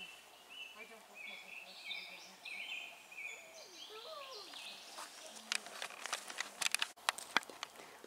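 A songbird singing a run of short, clear whistled notes that step up and down in pitch. In the second half the song gives way to a string of sharp clicks and rustles.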